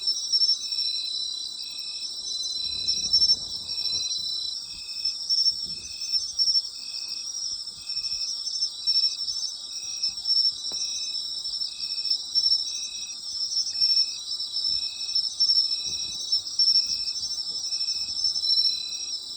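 Night chorus of autumn insects: a dense, continuous high trilling from several insects, with one insect calling in short, lower-pitched notes at an even rhythm of about once a second.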